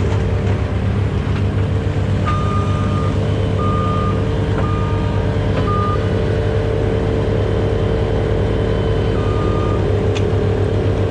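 Aerial lift truck's engine running steadily, with about six short electronic beeps at uneven gaps from the truck's warning beeper.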